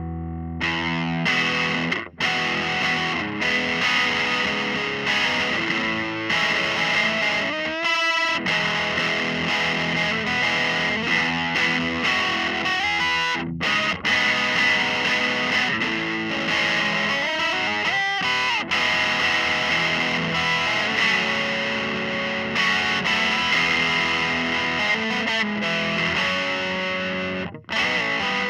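Electric guitar played through a Dr. Z Maz 18 NR 2x10 combo amp, a continuous run of chords and single notes with a few brief breaks.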